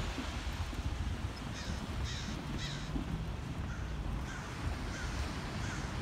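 A bird giving a series of short, harsh calls that fall in pitch, about seven in all. The first three come close together and loudest, and fainter ones follow at roughly even spacing.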